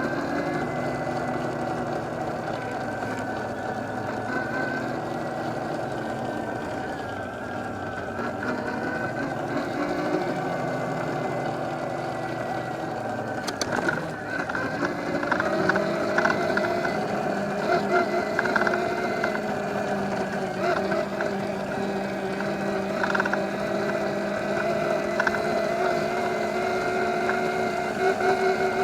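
Evoltrix X7 electric pit bike's 48 V mid-drive motor whining as it is ridden, the pitch drifting up and down with speed. About halfway through there is a brief knock, after which the whine holds steadier and a little louder.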